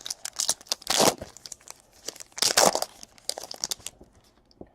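Trading-card pack wrapper being crinkled and torn open, with cards rustling, in a run of short bursts; the two loudest come about a second in and about two and a half seconds in.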